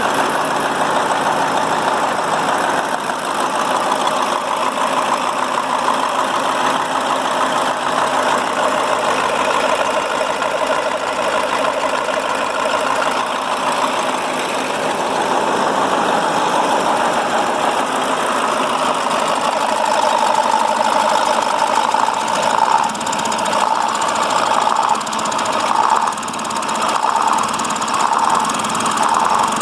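KAMAZ 740.51-320 V8 turbodiesel engine running steadily, with small swells in loudness toward the end.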